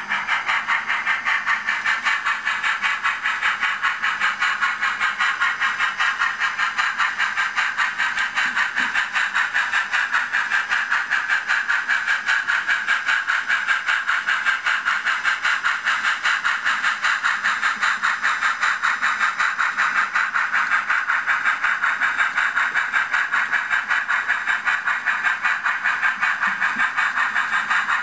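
Train running with a steady, rapid, even pulsing rhythm over a hiss.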